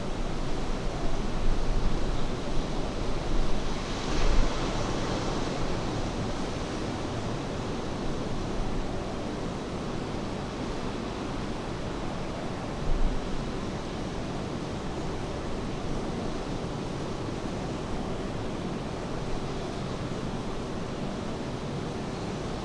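Ocean surf washing ashore under steady rain, one wave breaking louder about four seconds in. Low gusts of wind knock on the microphone now and then.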